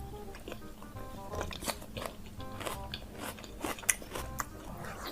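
Close-miked crunchy biting and chewing of food, a string of sharp crackly crunches, the loudest a little under four seconds in, over background music.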